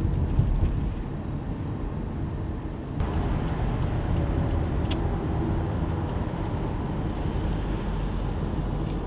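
Steady road and engine noise of a car while driving, heard from inside the cabin. About three seconds in the noise gets louder and brighter.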